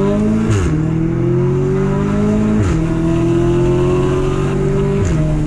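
2016 Audi S3 Sportback's turbocharged 2.0-litre four-cylinder, through a non-resonated Milltek exhaust, pulling hard through the gears. The engine note climbs, then drops at each upshift: three shifts about two seconds apart.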